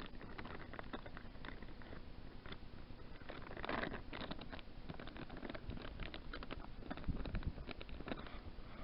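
Faint scattered small clicks and rustling: handling noise from rigging a fishing line with a new bait.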